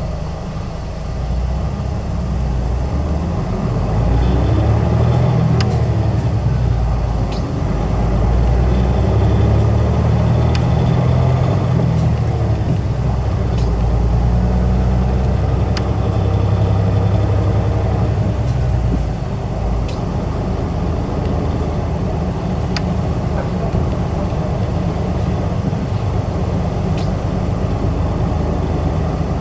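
Isuzu Erga city bus's diesel engine and drivetrain heard from inside the cabin, pulling away with engine pitch climbing through the gears, then easing off about 19 seconds in. Sharp clicks and rattles from the bus body come through now and then.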